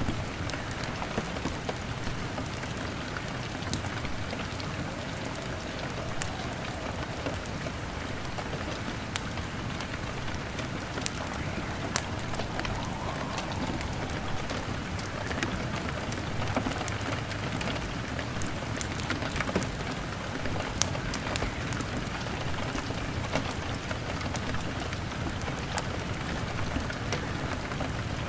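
Steady rain falling on a window: a continuous even hiss, scattered with many sharp little ticks throughout.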